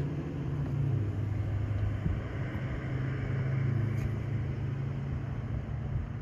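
A motor vehicle running, with a steady low hum and rumble.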